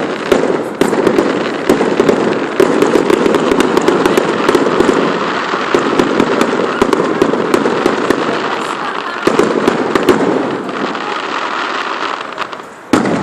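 Fireworks display going off in a rapid, dense barrage of bangs over continuous crackling, with one last loud bang near the end.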